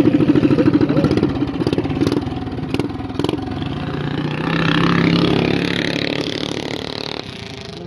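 Small mini bike engine running with a fast putter. About five seconds in, an engine swells louder and then fades away.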